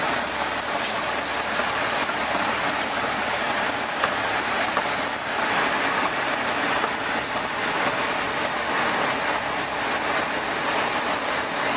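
Steady rushing roar of propeller aircraft engine noise, with a short sharp click about a second in.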